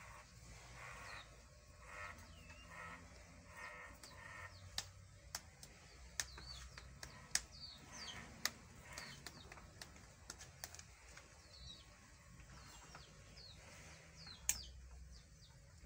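Small birds chirping on and off in short high calls, with a few sharp clicks, the loudest of them near the end.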